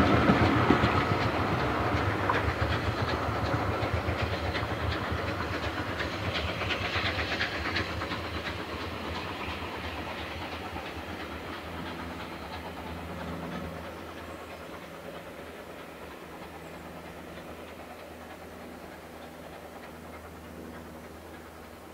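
Train passing and running away, its wheels clicking over rail joints. It fades steadily into the distance.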